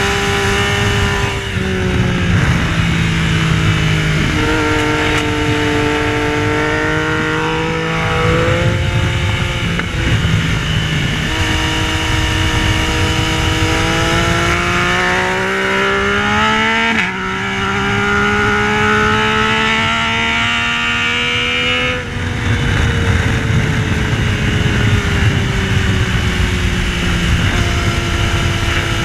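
Yamaha Tracer 900's inline three-cylinder engine under hard acceleration on track. The revs climb and then drop sharply at each upshift, twice clearly in the second half. From about 22 seconds in, the engine speed winds down steadily as the throttle comes off.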